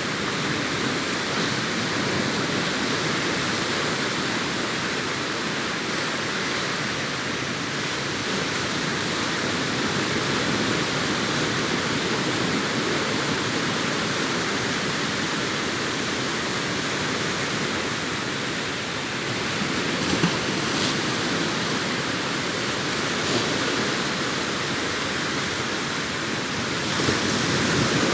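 Sea surf breaking and washing up a beach: a continuous wash of waves that swells and eases slowly, with a few faint ticks over it in the second half.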